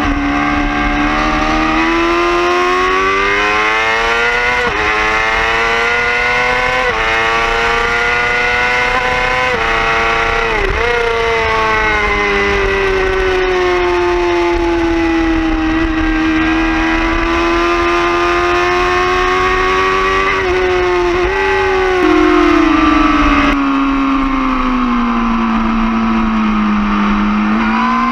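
Yamaha R6 inline-four sport-bike engine at high revs on track, climbing in pitch through several upshifts over the first ten seconds. Quick downshifts come about ten and twenty seconds in, the pitch then falls slowly and picks up again near the end, over wind rush.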